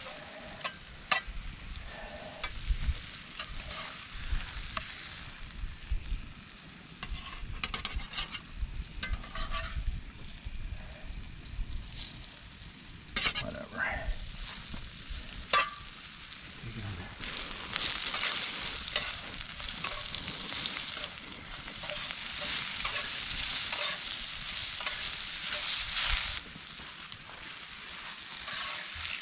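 Steaks sizzling in a frying pan over a campfire, a steady high hiss with scattered sharp clicks and knocks. The sizzle grows louder a little past halfway and drops back near the end.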